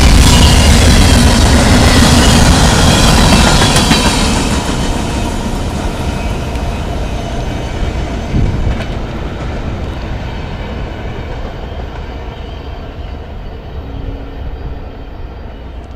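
Freight train's cars rolling past on the rails, loud for the first few seconds, then fading away steadily as the train moves off.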